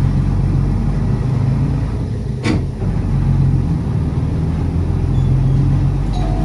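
Route bus running, heard from inside the cabin: a steady low engine drone, with a single sharp knock about two and a half seconds in.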